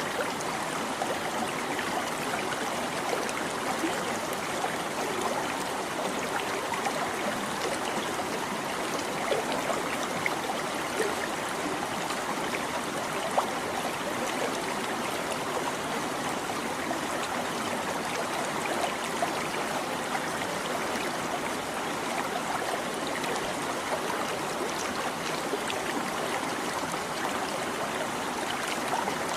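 A shallow stream babbling steadily over stones, with small splashes and gurgles throughout.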